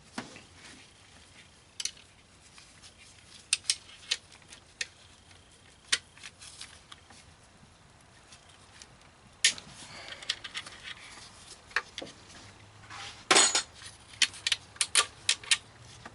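Metal hand tools clinking and clicking as a socket wrench works on engine bolts: scattered sharp metallic taps, with a quick cluster of clicks near the end.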